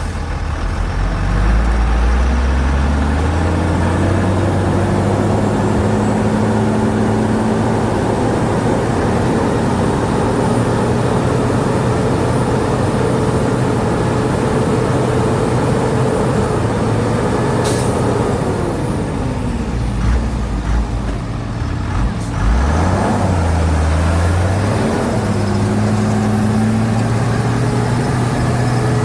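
Heavy diesel engine of earthmoving machinery revving up and running hard under load, dropping in revs about two-thirds of the way in, then rising again.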